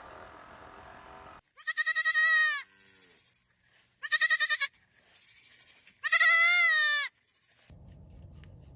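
Three loud, high bleats from a young goat or lamb-like animal, each starting with a quick quaver; the last is the longest.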